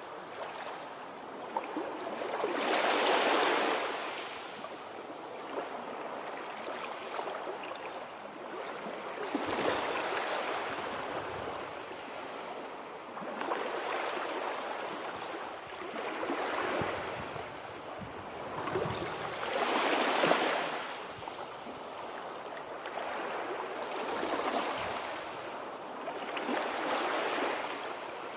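Sea waves breaking and washing onto the shore, swelling and falling every few seconds, the strongest about three seconds in and near twenty seconds.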